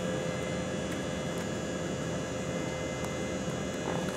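Steady jet engine and airflow noise heard inside an airliner's passenger cabin, with a constant whine held at one pitch.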